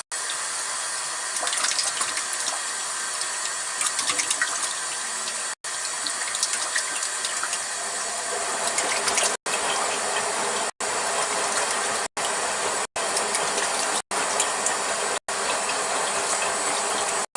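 Water running steadily from a tap into a container being filled, a continuous splashing rush broken by several brief silent gaps in the second half.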